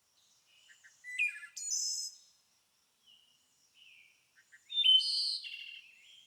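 Songbirds singing: two loud, busy high-pitched song phrases, one about a second in and one near the end, with fainter chirps from other birds in between.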